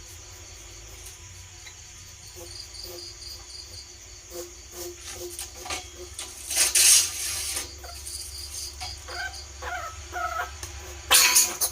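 Bandicoot rat lure call: a few short squeaks over a steady cricket-like chirring, with two loud bursts of scratching or rustling, one in the middle and one near the end.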